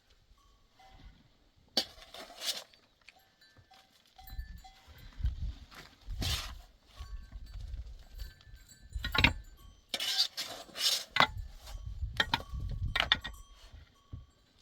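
Bells on grazing livestock clinking in short, thin, ringing notes, with rustling and low rumbling noise from about four seconds in.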